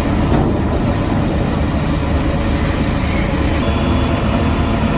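Heavy diesel construction machinery running steadily with a continuous low rumble.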